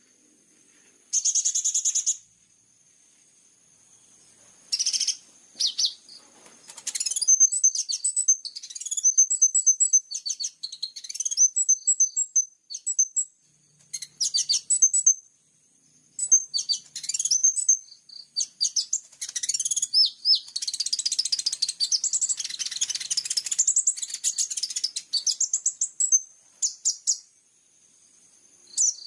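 Small songbirds' high-pitched chirps and fast twittering trills, a sunbird-training song recording with fill-in calls. It opens with two even buzzes of about a second each, and a faint steady high insect-like tone runs behind.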